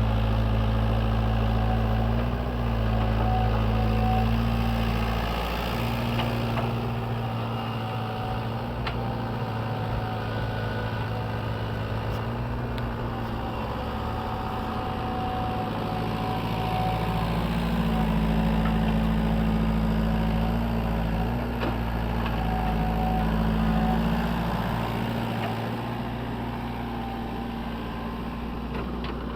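Sany mini excavator's diesel engine running steadily, its note shifting every few seconds as the machine works.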